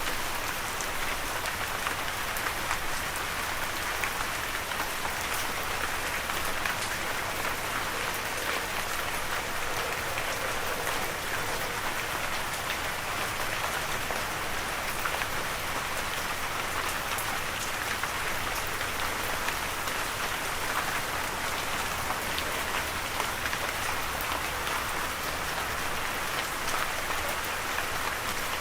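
Steady rain falling, an even hiss of drops with many small ticks of individual drops landing on a surface.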